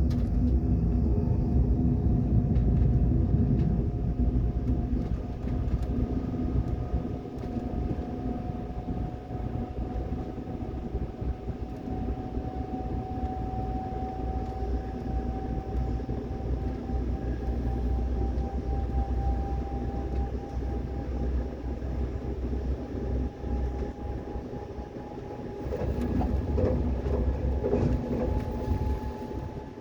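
Train running on the rails, heard from inside the carriage: a steady low rumble with a faint whine that rises slowly in pitch, and some rattling near the end.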